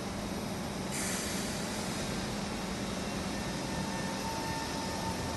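SMRT C151 metro train pulling out of the station, running past with a steady low hum and rail noise. A hiss starts about a second in, and a steady whine comes in near the end as it picks up speed.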